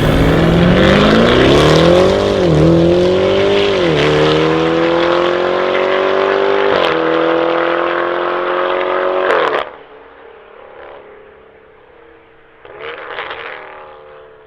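Lamborghini Urus twin-turbo V8 through a Novitec exhaust, accelerating hard: the pitch climbs, dips at two upshifts, then keeps rising until the sound cuts off abruptly about ten seconds in. A shorter, quieter burst of engine sound follows near the end.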